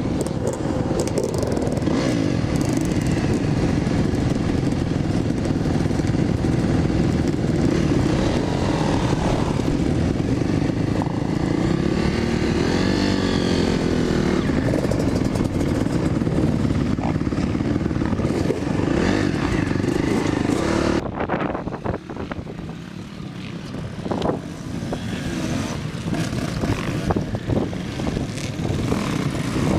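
Dirt bike engines running loudly, the revs rising and falling. About two-thirds of the way through the sound drops suddenly to quieter, more distant engine noise.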